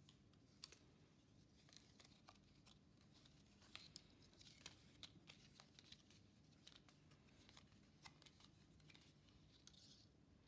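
Near silence: faint, irregular small clicks and rustles, several a second at times, over a low steady hum.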